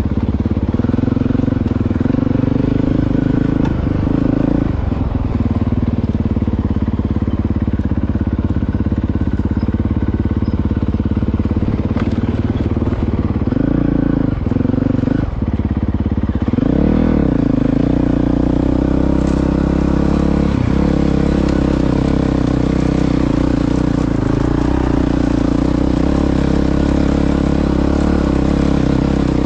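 Honda CRF450RL single-cylinder motorcycle engine running at a steady, loud pitch, with a couple of brief dips in revs about 14 seconds in and a drop-and-rise in revs around 17 seconds.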